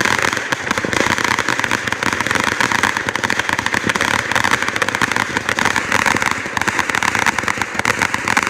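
Fireworks crackling: a dense, continuous barrage of rapid small pops with no pause.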